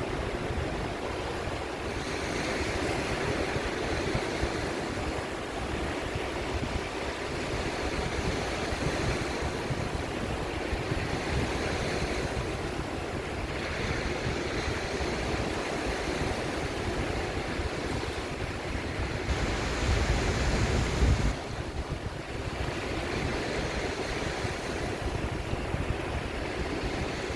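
Sea waves washing in with wind, a steady rushing that swells and eases. About three-quarters of the way through, a stronger low rumble of wind on the microphone comes and cuts off.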